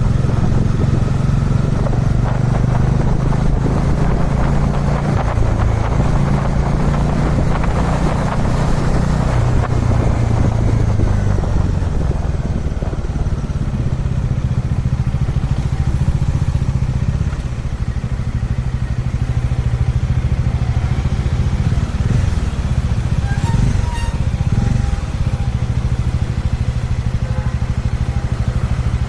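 Dominar 400 UG2 motorcycle's single-cylinder engine running under way. Its pitch shifts and then drops off about eleven seconds in as the bike eases off, with a rush of wind noise over the first half.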